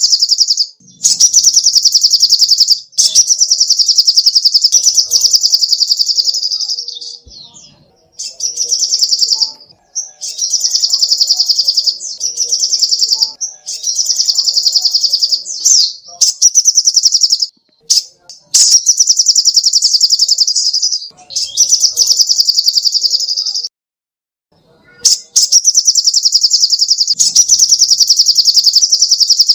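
Sogok ontong (spiderhunter) singing: loud, high, very fast trills of rapidly repeated notes. The trills come in bursts of one to three seconds, separated by short pauses.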